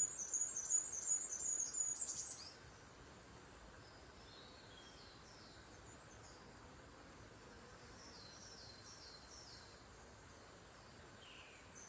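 Birds singing: a quick, loud run of repeated high chirps for about the first two seconds, then fainter falling song phrases now and again over a steady outdoor hiss.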